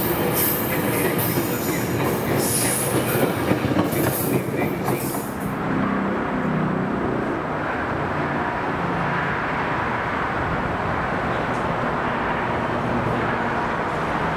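A train rolling past on the tracks: steel wheels clattering and squealing on the rails. The sharp high clatter stops about five seconds in, and a steady rumble carries on.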